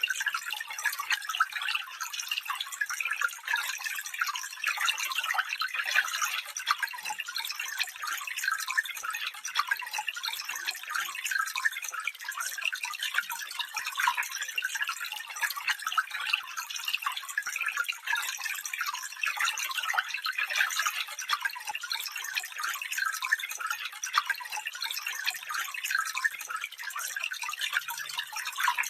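Small stream running over stones: a steady bright babble of many small splashes and trickles, with little low rumble.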